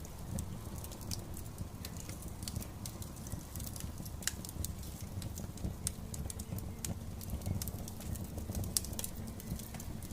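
Fire in a fire pit crackling, with irregular sharp pops and snaps over a steady low rumble of the flames.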